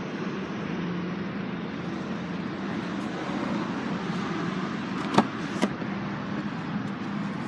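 Steady vehicle hum with a low drone, broken a little past halfway by two sharp clicks about half a second apart.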